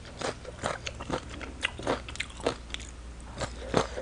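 Close-miked chewing of shredded green mango salad: a run of crisp crunches, about three to four a second.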